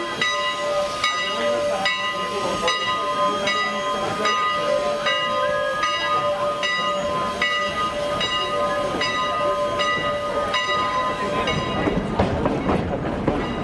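Steam locomotive bell ringing steadily, struck about once every 0.8 s, with the hiss of steam beneath it. The bell stops a couple of seconds before the end, and a low rumble of the moving train takes over.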